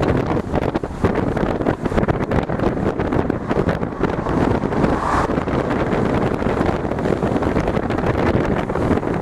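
Heavy wind buffeting the microphone, a rough, steady rumble with irregular gusty thumps throughout.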